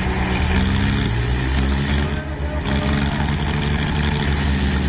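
Swaraj tractor diesel engines running hard under load, their pitch shifting and dipping briefly about two seconds in, then holding steady.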